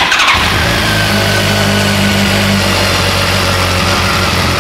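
2008 BMW K1200 GT motorcycle's inline four-cylinder engine, just started, settling into a steady idle.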